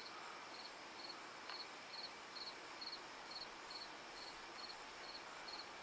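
A cricket chirping at night, short high chirps in a steady, even rhythm of a little over two a second, faint over a quiet background hiss.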